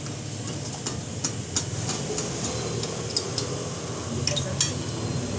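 Irregular light metallic clicks and clinks of hand tools working on car parts, several a second, over a low steady hum.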